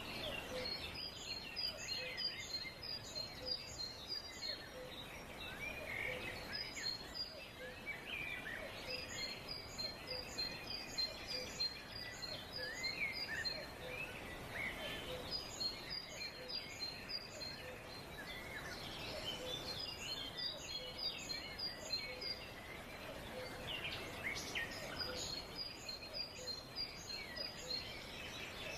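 Forest bird chorus over a steady background hiss. One bird repeats a rapid phrase of high notes every few seconds, about two seconds long each time, while other birds chirp in between.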